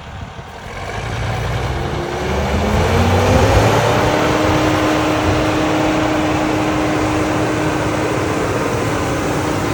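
Tractor engine pulling a subsoiler: it builds up over the first few seconds with its pitch rising as it revs, then runs steadily at a constant pitch over a deep rumble.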